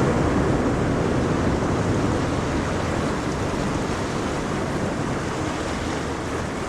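Ocean waves: a steady wash of surf, easing off slightly in the second half.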